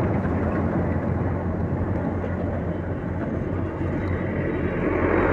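Motorcycle riding along a road: steady engine and road rumble mixed with wind rushing over the microphone, getting louder near the end.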